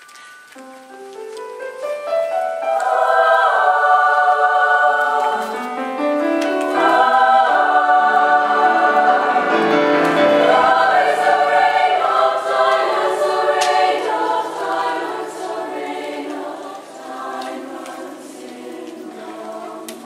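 Women's choir singing in several parts, swelling from soft to full voice over the first few seconds and easing off after about fourteen seconds.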